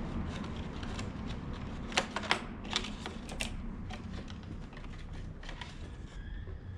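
Irregular light clicks and taps of plastic tail-light parts and wiring connectors being handled, with a few sharper clicks about two to three seconds in.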